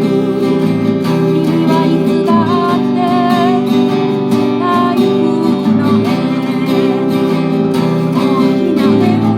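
Music: an acoustic guitar strumming under a wavering melody line, part of an original song.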